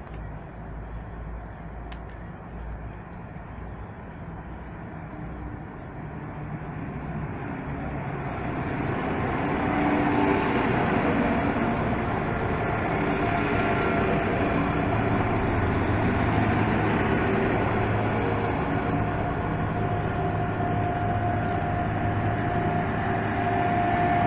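A train approaching and running past, growing louder over a few seconds and then holding at a steady rumble.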